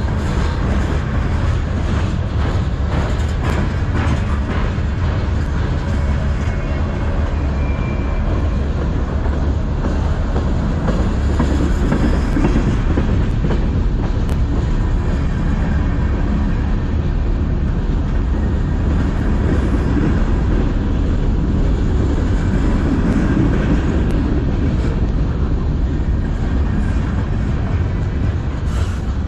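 Mixed freight cars of a manifest train rolling past close by: a steady loud rumble of steel wheels on the rails, with rattling and frequent clicks of clickety-clack.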